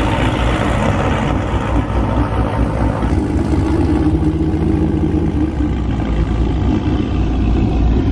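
Car engine running at a low idle, heard from inside the car's cabin as a steady low rumble.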